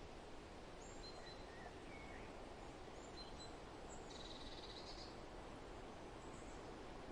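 Faint forest ambience: a steady hiss of wind through leaves, with small birds giving short scattered chirps and one brief trill about four seconds in.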